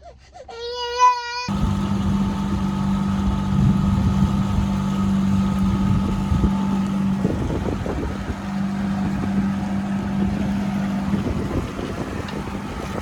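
A short high, wavering voice, then a boat's engine running at a steady speed with a constant hum, mixed with water and wind noise.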